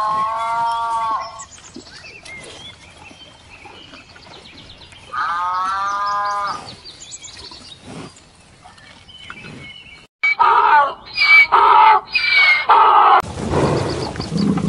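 Cattle mooing: two long moos, then a run of shorter, louder calls about ten seconds in. Near the end a loud, steady rushing noise with a low hum cuts in.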